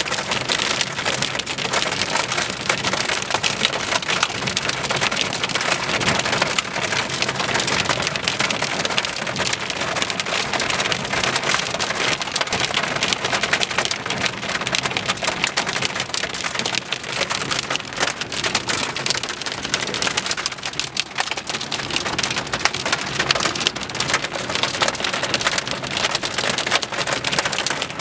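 Heavy rain pattering densely on a hard surface, a steady rush full of sharp ticks from the drops striking.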